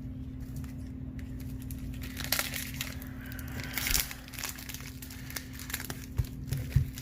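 Wax-paper baseball card packs being torn open and crinkled, with cards handled, in scattered short rustles and clicks from about two seconds in.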